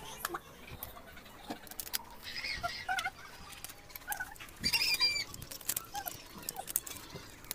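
Scattered clicks and taps of food, shells and plates being handled as several people eat with their hands. A few short high chirps cut in, the loudest about five seconds in.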